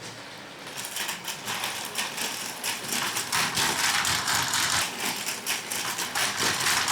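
Battery-powered Plarail toy train running on plastic track: its geared motor and wheels make a dense, steady rattling clatter that starts about a second in.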